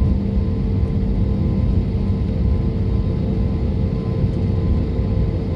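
Airliner cabin noise on the ground just before takeoff: a steady low rumble of the running engines and air system, with a faint steady hum over it.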